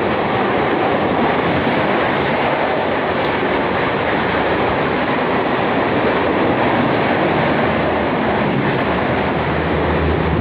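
Express passenger train passing at speed: a steady, loud rush of wheels on rails and coaches going by.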